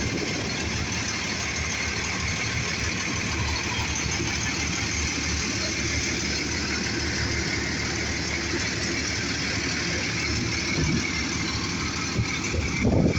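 A vehicle engine running steadily as an even rumble with a hiss above it, and a brief louder burst near the end.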